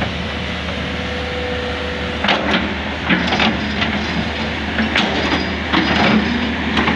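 Excavator's diesel engine running steadily, with a brief whine about a second in and several knocks and scrapes as the bucket digs into the riverbed. The bucket is striking hard rock (cadas) at the bottom of the channel.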